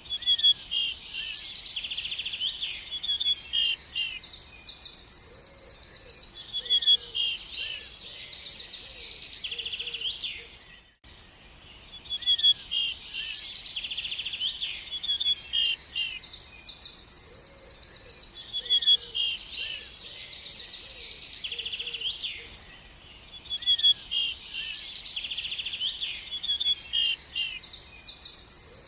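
Birds singing: a dense run of high chirps and rapid trills. The same passage repeats about every twelve seconds, with a brief dip in between, as a looped recording.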